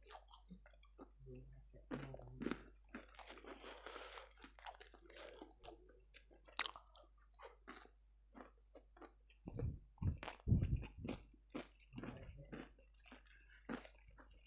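A person chewing and biting crispy fried chicken close to the microphone, with wet mouth sounds and many small crunches. A few louder low thuds come about ten seconds in.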